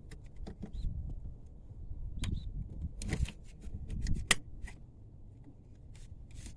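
Faint, irregular small clicks and rustles over a low background rumble, with sharper clicks about three and four seconds in.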